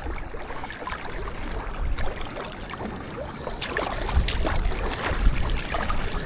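Kayak paddles dipping and splashing in river water, in irregular strokes, with low rumbling on the microphone.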